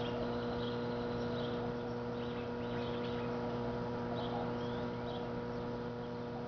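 Microwave oven running with a steady electrical hum, no arcing yet.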